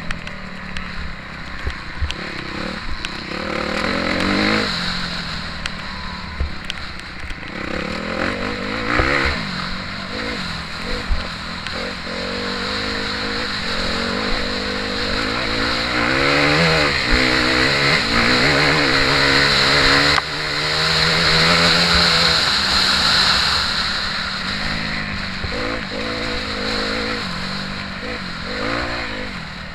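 Motocross bike engine revving hard, its pitch rising and falling again and again as it is ridden through the gears, heard from on board the bike.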